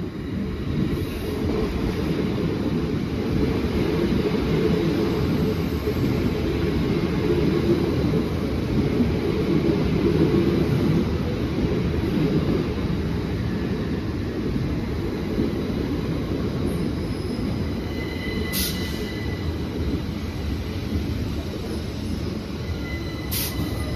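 Class 377 Electrostar electric multiple unit moving along the platform, a steady low rumble of wheels and running gear that swells over the first few seconds and then slowly eases. Near the end come two brief, high squeals, about five seconds apart.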